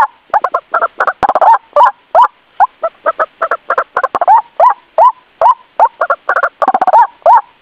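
White-breasted waterhen calling: a rapid, unbroken run of short, harsh 'ruak' notes, several a second, some slurring upward.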